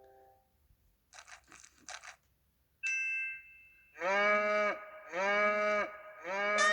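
Electronic baby toy sound machine: a few clicks, a short electronic ding, then three identical cow moos in quick succession from the toy's speaker.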